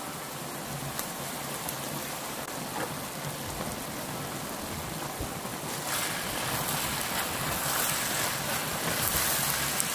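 Ground meat frying in a pan, sizzling steadily. The sizzle grows louder and brighter about six seconds in as a wooden spatula stirs the meat.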